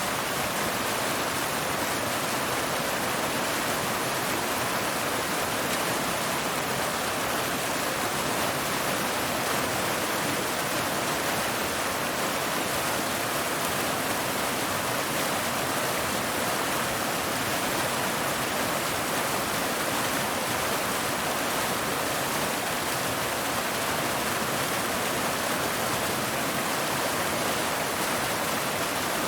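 Waterfall: a steady rush of falling water, even and unchanging, with most of its sound in the upper range and little low rumble.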